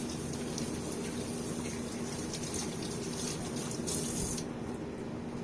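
Kitchen tap running steadily into a sink while hands are washed.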